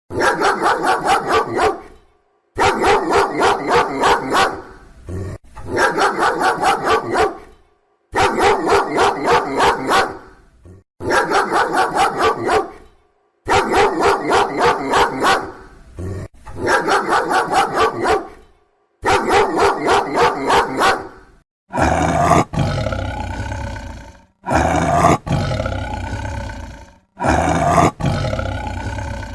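Loud animal calls in repeated bursts of about two seconds with short silent gaps between them: rapid pulsed calls at first, then, for the last few bursts, smoother drawn-out growling calls.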